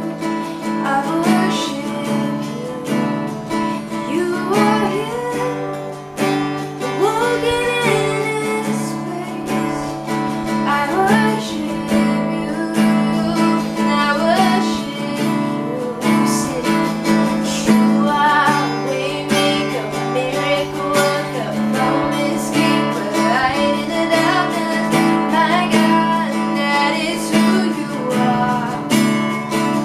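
Worship music: a strummed acoustic guitar keeping steady chords, with a singing voice carrying the melody over it.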